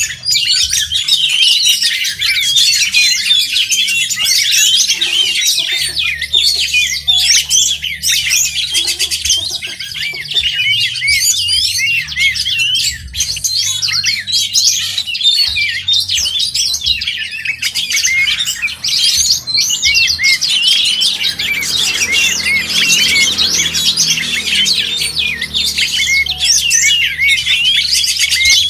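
Oriental magpie-robin (kacer) singing continuously, a dense, fast run of varied whistled notes and quick pitch slides with no pause.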